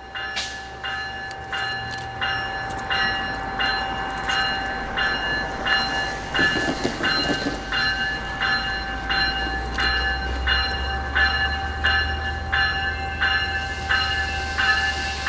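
A train passing with a steady low rumble, and a regular ringing metallic strike about twice a second.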